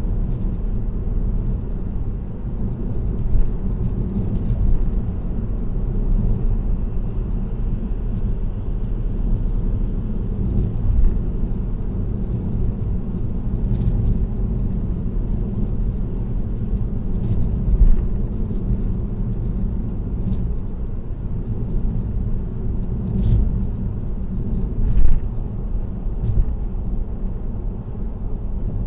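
Steady road and tyre noise with a low rumble from a car cruising on an expressway, heard from inside the cabin, with small rattles ticking throughout and a few sharper knocks, the loudest about 25 seconds in.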